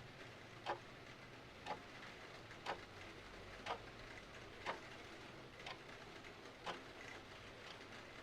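Mechanical clock ticking about once a second, with a faint steady hiss of rain beneath it.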